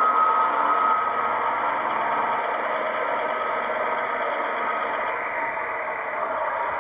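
Diesel multiple unit engine sound from a DCC sound decoder, played through the small speaker of an OO-gauge model train. The decoder carries a class 158 sound file and runs steadily, with a thin whine in the first second that fades out.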